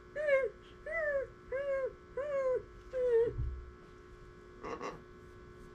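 A parrot giving five short, clear whining calls in a row, about two-thirds of a second apart, each rising and then falling in pitch. A soft low thump follows, and a brief rougher sound comes a second or so later.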